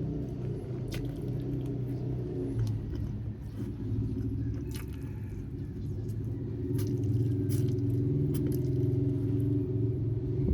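Close-up chewing and biting on grilled chicken, with scattered small crunching clicks, over a steady low hum.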